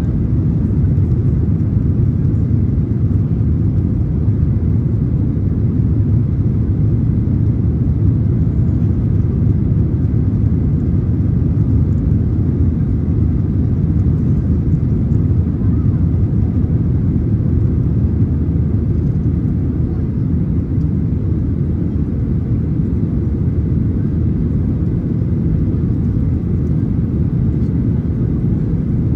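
Steady, deep cabin rumble of a Boeing 737-900ER in flight after takeoff: its two CFM56-7B engines and the airflow over the fuselage, even throughout with no changes in pitch.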